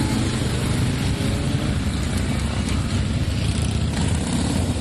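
A procession of motorcycles riding slowly past, many engines running together in a steady low rumble.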